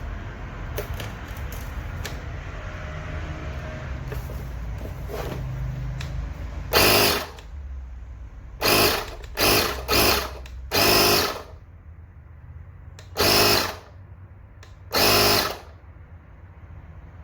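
Small electric motor running in seven short bursts, each half a second to a second long, over a steady low rumble. This fits the portable air compressor being switched on and off.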